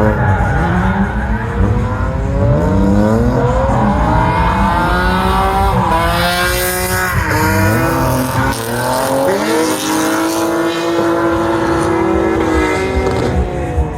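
Car engine revved hard up and down again and again, with tyres squealing, as in drifting.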